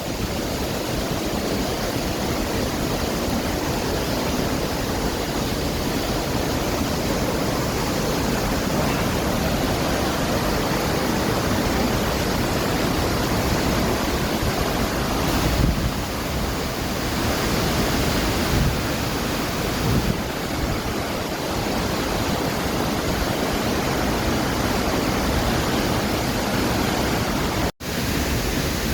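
Steady rushing of a waterfall, a loud, even noise that drops out for an instant near the end.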